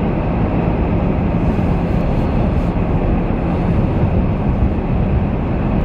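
Steady road noise inside a moving vehicle: a low rumble of tyres and engine with no breaks, and a faint steady hum through the first half.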